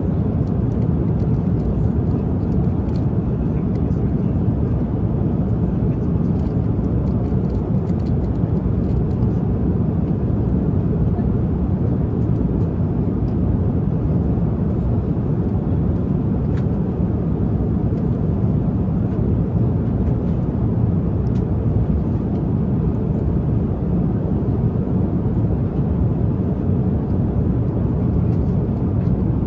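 Steady low rumble of jet airliner cabin noise in cruise flight, with a few faint ticks over it.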